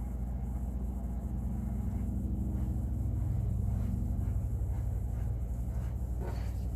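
A low, steady rumble with a hum, swelling slightly in the middle, and a brief faint rising squeak near the end.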